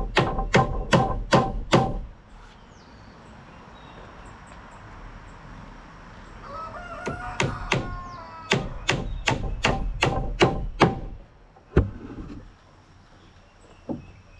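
Hammer driving nails into wooden 2x6 rafters: a quick run of strikes, about three a second, a few seconds' pause, then a longer run and one last blow. A chicken calls briefly in the pause.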